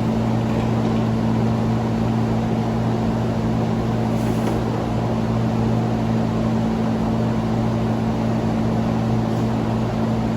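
A motor running steadily at constant speed, a low hum with no change in pitch or level.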